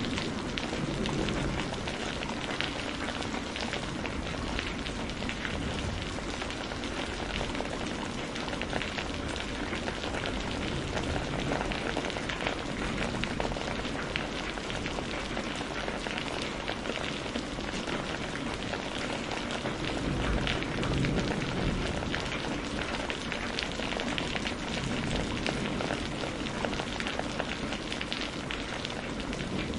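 Steady, heavy rainfall, a dense even hiss of drops on surfaces. A low rumble swells briefly about two-thirds of the way through.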